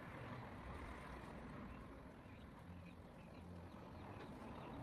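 Faint outdoor ambience with a low rumble and a few short, high bird chirps.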